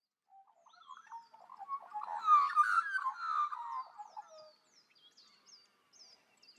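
A chorus of wildlife calls: many short chirping, warbling calls that swell to a dense peak in the middle and then die away, with short high falling chirps repeating throughout.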